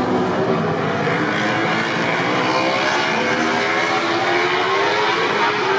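MotoGP four-cylinder racing motorcycle engines running, with several engine notes overlapping and their pitch drifting slowly down, then rising again near the end.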